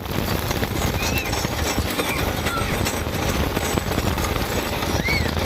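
Wooden roller coaster train rattling and clattering along its track at speed, with a few short high squeals or cries mixed in.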